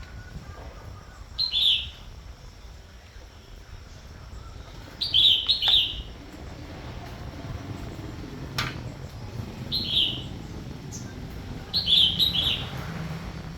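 Bird chirps: short calls every few seconds, some single and some in quick groups of two or three, over a low steady rumble, with a sharp click about two-thirds of the way through.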